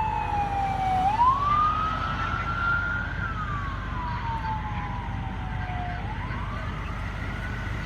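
Emergency vehicle siren wailing, its pitch sliding slowly up and down, rising twice and falling in between, over a low rumble of engines.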